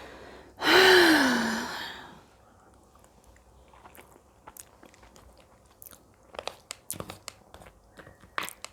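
A person chewing a mouthful of pasta close to the microphone, with wet clicks and lip smacks coming irregularly in the second half. About a second in there is one loud, breathy voiced sound that falls in pitch.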